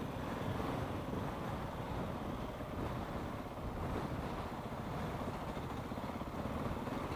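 Motorcycle engine running low and steady, with some wind on the microphone.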